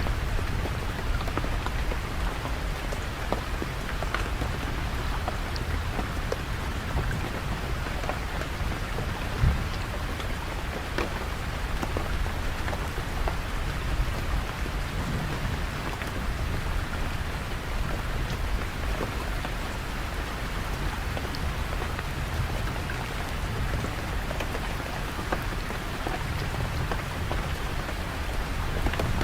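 Steady rain falling, with scattered drops ticking sharply on surfaces over a constant low rumble. One louder knock about nine seconds in.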